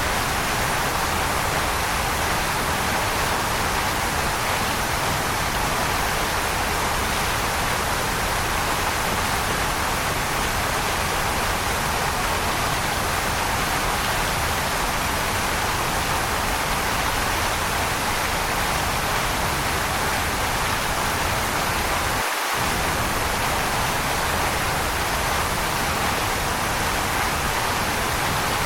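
Waterfall rushing: a constant, even roar of falling water with no separate splashes or drops.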